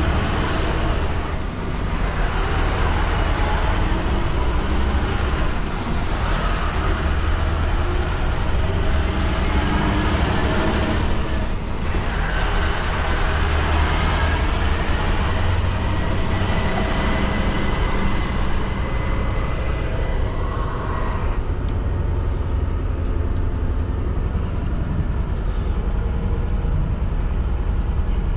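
Scania R620's V8 diesel engine running steadily as the truck is driven, heard from inside the cab, over a steady hiss of tyre and rain noise.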